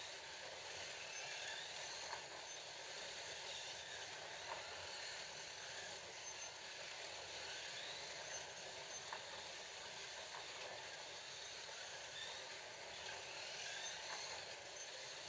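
Several Scalextric slot cars running on the track, their small electric motors whining and rising and falling in pitch as the throttles are worked, with occasional ticks from the cars on the track.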